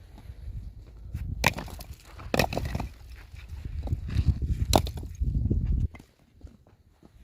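Several sharp knocks and cracks over a low rumbling of handling noise, which cuts off abruptly about six seconds in.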